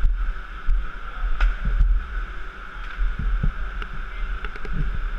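Small pit bike engine running with a steady low rumble, along with scattered clicks and knocks.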